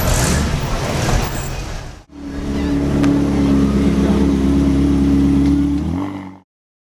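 Car engines at a car cruise: first a noisy mix of engine sound, then after a cut a single engine idling steadily, which cuts off abruptly about six seconds in.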